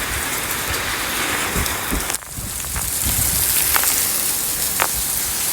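Steady rain hissing, with scattered single drops ticking on a surface. The sound dips abruptly about two seconds in, then comes back with a brighter hiss.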